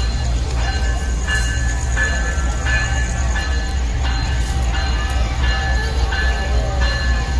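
Diesel-electric locomotive, a Wabtec (GE) AC44i, running with a steady low rumble, with music playing over it.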